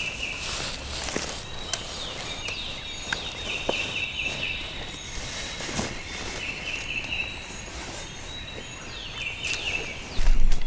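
Wild turkeys gobbling in the distance: several rattling calls a few seconds apart, over footsteps in dry leaf litter. A louder rustle near the end.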